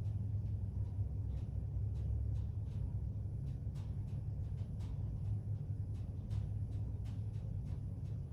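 Hyundai WBHS high-speed elevator car travelling at speed between floors, heard from inside the cab: a steady low rumble with faint light ticks every fraction of a second.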